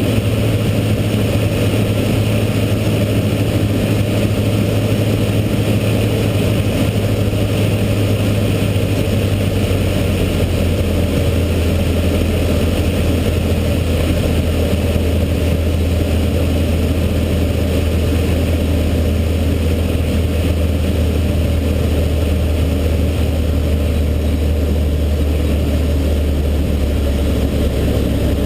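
Cessna 152's four-cylinder Lycoming O-235 engine and propeller running steadily in flight, the engine note dropping slightly in pitch about ten seconds in.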